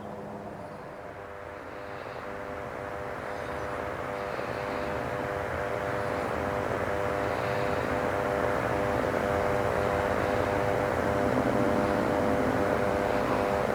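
Fixed-wing aircraft engines droning with a steady tone, growing louder over several seconds as the aircraft approaches, then holding.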